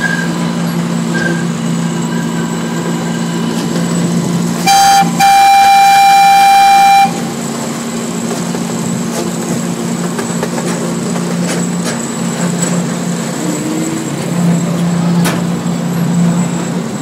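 Zoo train's horn giving a short toot and then a held blast of about two seconds, over the train's steady running hum.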